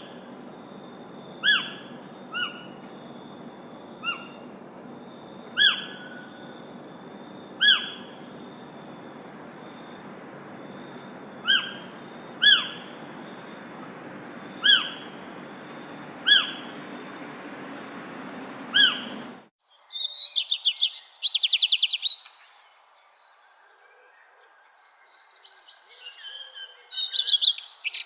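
Birds calling: a single short, sharp call note repeated every second or two over a steady hiss. Then an abrupt change to rapid high trills and chirping songs of other birds.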